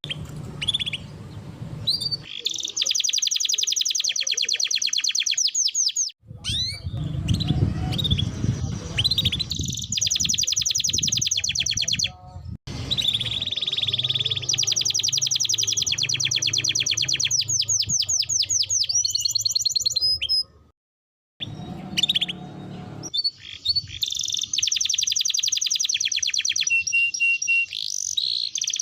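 Domestic canary singing long, fast trills and rolls of rapidly repeated high notes. The song is cut by a few sudden brief dropouts.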